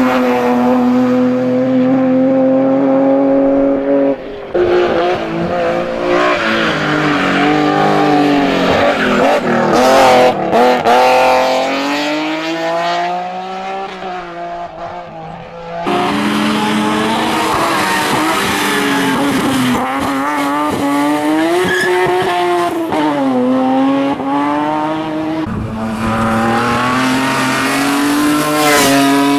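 BMW M3 race car engines revving hard, the pitch climbing and dropping repeatedly as the cars accelerate, shift and lift off for corners, in several shots cut together with abrupt changes in sound.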